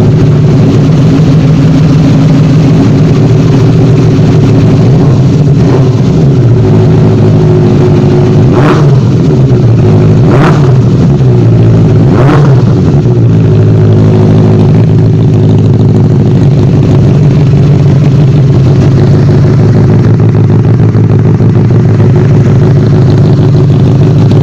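Benelli TNT 600i inline-four motorcycle engine idling steadily, blipped with short throttle revs a few times near the middle.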